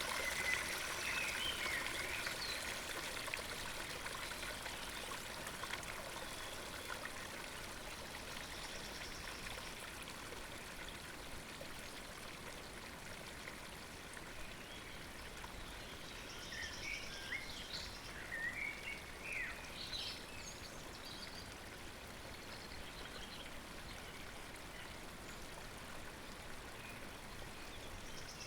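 Steady rushing and trickling of a small stream running into a pond, easing slightly in the first few seconds. Small birds chirp briefly near the start and again in a cluster about two-thirds of the way through.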